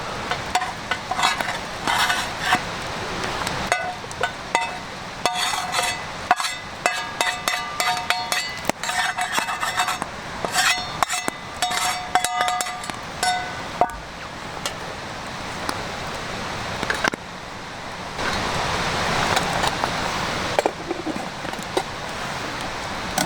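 Metal camp cookware and utensils clinking and knocking again and again, many strikes ringing briefly, for about the first fourteen seconds. After that a steady hiss takes over, louder in the last few seconds.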